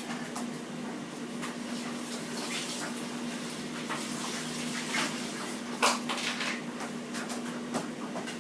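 Tap water running into a sink while things are rinsed under it, with scattered clinks and knocks, the loudest about six seconds in, over a steady low hum.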